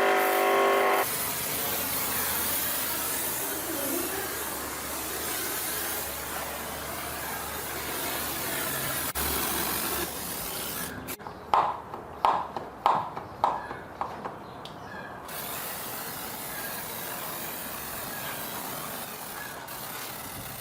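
Engine-repair work noise: a steady hiss, with a run of about six sharp, ringing metallic taps near the middle.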